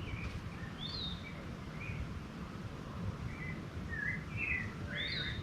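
Birds chirping in short, scattered calls, more of them near the end, over a steady low rumble.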